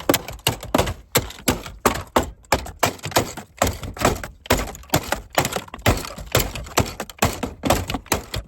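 Rapid repeated blows, about three a second, smashing at a pickup truck's dashboard around the lit engine warning light, with plastic cracking and breaking.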